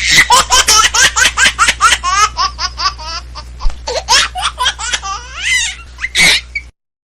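High-pitched laughter in quick bursts, about five a second, over a steady low hum, used as a comedy sound effect; it cuts off suddenly near the end.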